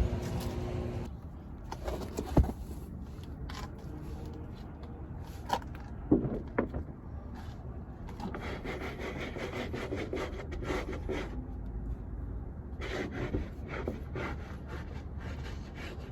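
Handling noise: rubbing and scraping strokes in quick runs, with a few sharp knocks.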